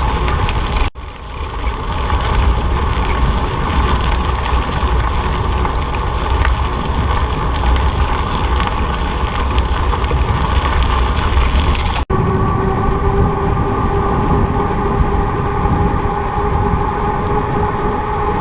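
Wind rumbling on the microphone with road and traffic noise during a bicycle ride. The sound cuts out briefly twice, and after the second cut a steady droning tone joins in.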